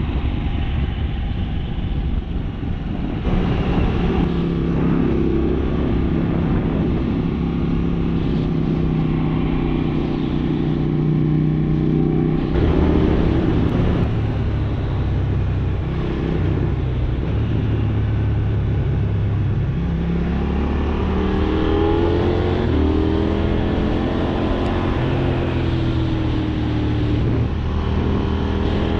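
KTM 790 Duke's parallel-twin engine heard from the rider's seat, running under load with road and wind noise, its pitch changing about 3 and 12 seconds in. In the second half it revs up several times in a row, the pitch rising with each pull.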